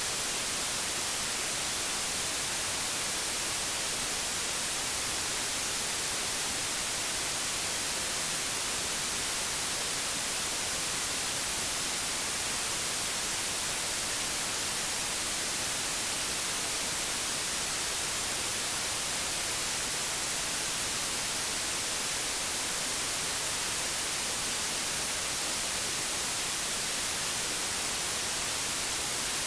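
Old analog television static: a steady, unchanging hiss, brightest in the highs.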